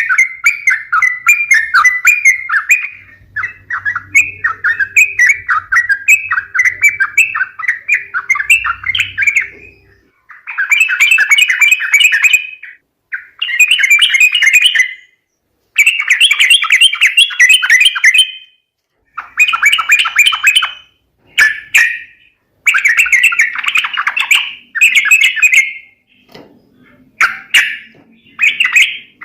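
Yellow-vented bulbuls (trucukan) chattering in fast, bubbly phrases. The calling runs on without a break for about ten seconds, then comes in bursts of one to three seconds with short pauses between them. It is a lure call for drawing wild bulbuls in.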